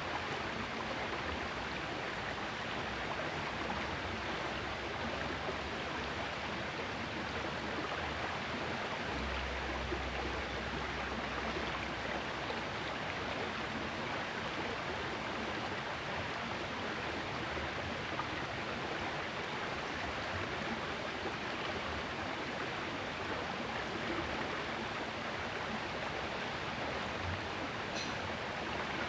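Steady rushing of a small river's flowing water, with a brief low rumble about a third of the way in.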